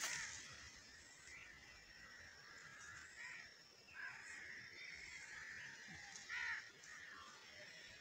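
Faint bird calls out in the open: a few short, separate calls, the loudest a little past halfway, over a faint steady high-pitched background.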